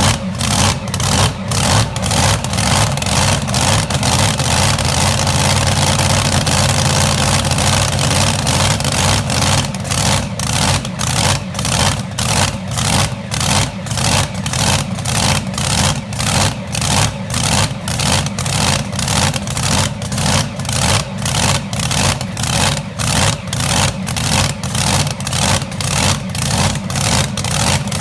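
Pulling-competition engine running hard, loud and continuous, pulsing about twice a second.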